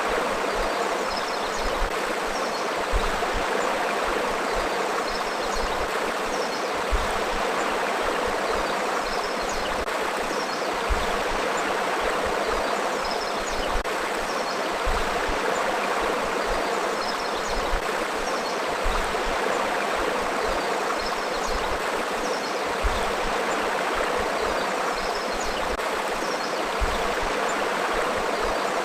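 A river flowing steadily, a continuous rush of water with a slightly louder surge about every four seconds.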